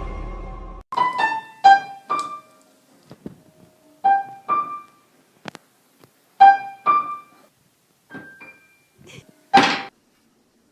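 Piano keys struck one or two at a time at uneven gaps, each note ringing out and fading, with no steady tune; near the end a loud cluster of many keys is hit at once. A steady music bed cuts off just under a second in.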